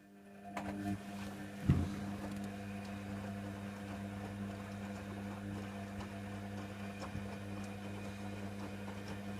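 Hoover Nextra HNWL7146 washer dryer's drain pump switching on and running with a steady mains hum after the rinse, with a single loud knock from the machine about two seconds in.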